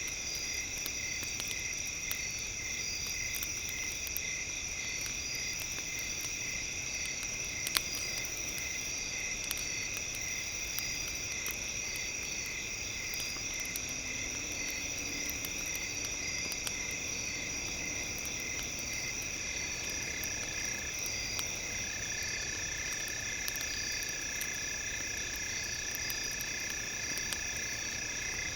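Night chorus of chirping insects and frogs in steady high-pitched layers, one of them a regular pulsing chirp, with scattered sharp crackles of a wood fire and one louder pop about a third of the way in.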